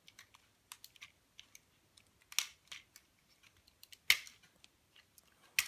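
Plastic joints of a Hasbro Transformers Optimus Prime figure clicking and snapping as its knee is worked open, with scattered small clicks and a few sharper snaps, the loudest about four seconds in.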